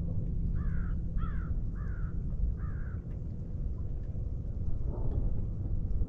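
A bird calls four times in quick succession, over a steady low rumble.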